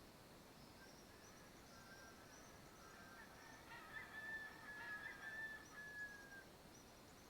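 Faint calls of distant birds at dawn, with a cluster of louder calls about four to six seconds in, over a low hiss.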